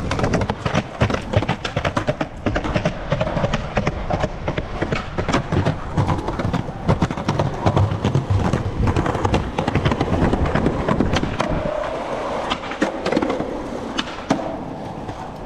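Skateboard rolling on concrete with many sharp clacks and pops of the deck, as the board is ollied up and down short stair sets and landed.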